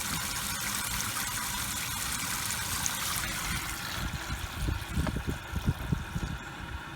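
Water running steadily from a camper's faucet attachment into a camp washer tub, the flow thinning about four seconds in, followed by a few low bumps.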